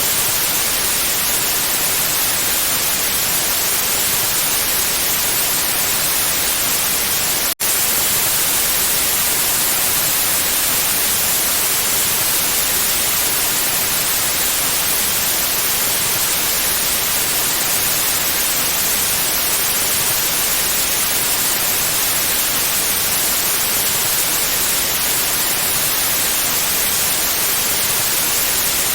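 Steady white noise: an even, full hiss brightest in the highs, broken once by a split-second dropout about seven and a half seconds in.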